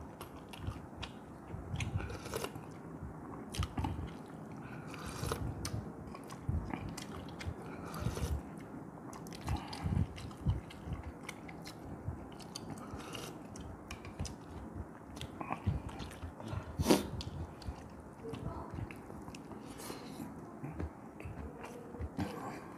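Chewing and mouth sounds of a person eating rice and red fish-head soup, with many small clicks throughout and one louder click about seventeen seconds in.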